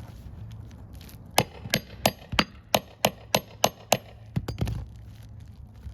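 Hammer tapping a metal tool worked under an asphalt shingle to free a stuck roofing nail: about nine sharp strikes at roughly three a second, then a couple of lighter knocks.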